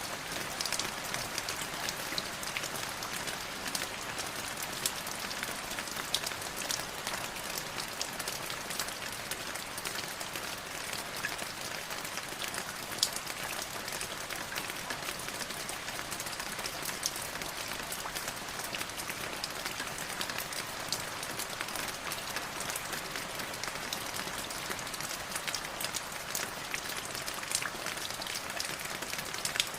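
Light drizzle falling steadily, an even patter with many small drop taps scattered through it.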